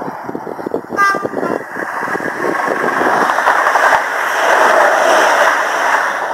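Electric multiple-unit passenger train passing close by at speed over a level crossing: a rush of wheel and rail noise that builds and peaks as the carriages go by. A short horn toot sounds about a second in.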